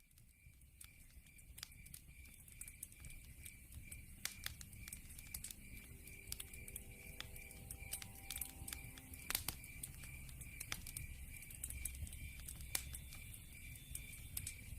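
Wood fire burning in a fireplace, fading in, with a low rumble and many irregular sharp crackles and pops, one louder pop about halfway through. Behind it, a steady high chirp pulses a few times a second, like a cricket as night ambience.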